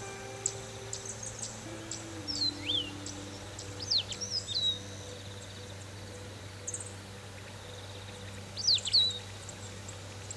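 Wild birds at dawn giving short, quick sweeping whistles and chirps, in a few scattered bursts. A faint steady low drone runs beneath them.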